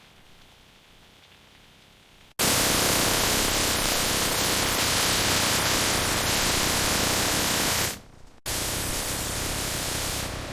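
Loud, steady rushing hiss that starts abruptly about two seconds in, cuts out for a moment near eight seconds, and resumes a little quieter.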